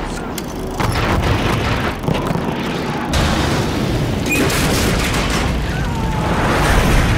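Cinematic air-battle soundtrack: a dense, continuous rumble of booms and explosions with bursts of gunfire, changing abruptly about three seconds in.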